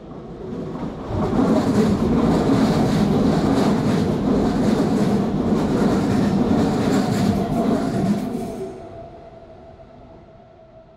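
A train running past on a nearby track: the rail noise swells about a second in, stays loud for some seven seconds, then fades away.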